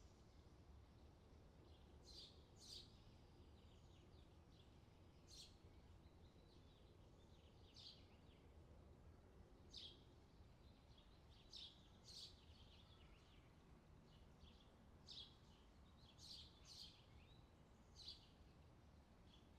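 Faint outdoor summer ambience: short high bird chirps every second or two over a soft, steady background hiss.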